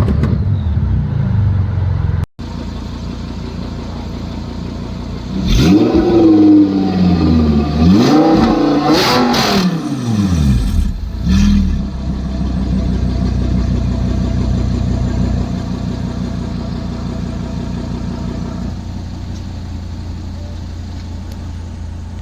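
Car engine revved in several quick blips, its pitch rising and falling with each, then settling into a steady drone that slowly fades.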